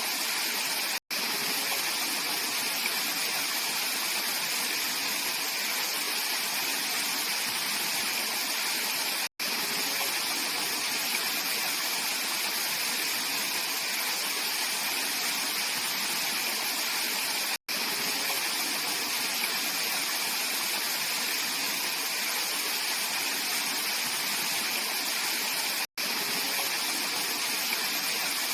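Mountain valley stream flowing, a steady rush of water. It cuts out to silence for an instant about every eight seconds.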